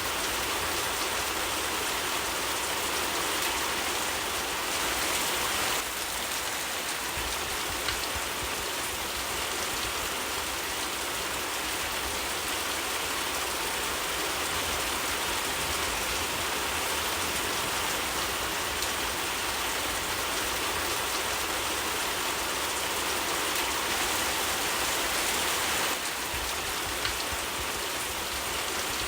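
Steady rain falling, an even dense hiss of drops, with a single faint click about eight seconds in.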